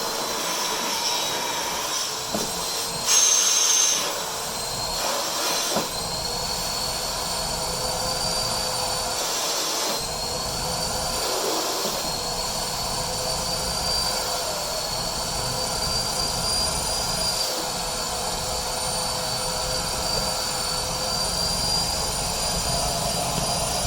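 Vacuum cleaner motor running steadily with a high whine whose pitch wavers slightly, as the load on the nozzle changes. There is a brief louder hiss about three seconds in.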